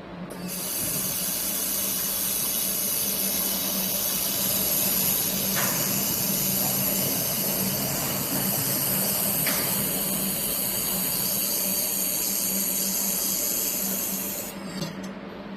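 4-in-1 fiber laser machine welding: a steady hiss with a low hum underneath, starting just after the start and cutting off about a second before the end.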